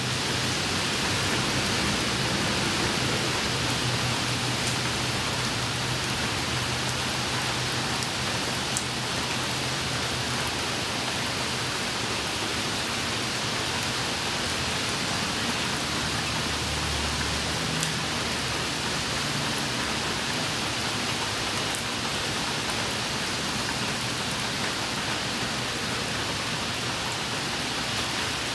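Steady rain falling on wet pavement, an even hiss with a few sharper drop ticks now and then.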